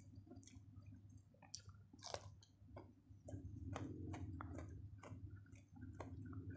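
Close-miked chewing of a mouthful of food: a string of short wet clicks and lip smacks, one sharper click about two seconds in, over a low steady hum.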